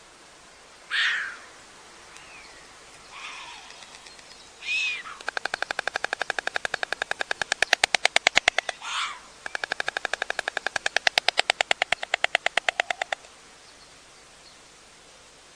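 White storks bill-clattering: two long bouts of rapid, evenly spaced wooden clacks, each lasting about four seconds, the first starting about five seconds in. A few short, louder sweeping sounds come before and between the bouts.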